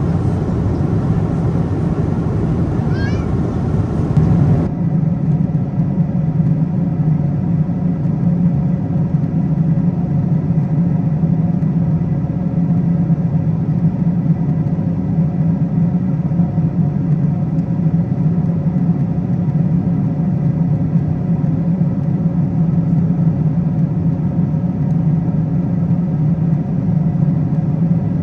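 Steady cabin drone of a Boeing 777-200ER at cruise: engine and airflow noise with a steady low hum. The sound changes abruptly about four and a half seconds in, and a brief rising squeak is heard shortly before that.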